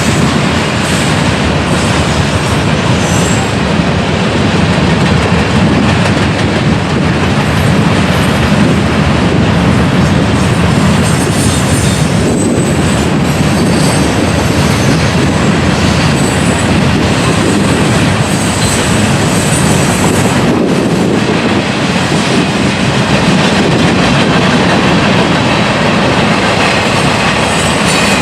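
Train cars rolling past, a steady loud rumble of wheels on rail, with brief faint high wheel squeals now and then.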